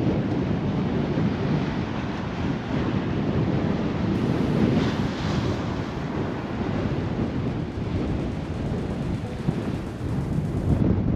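Strong wind buffeting the microphone over the noise of ocean surf breaking on the beach.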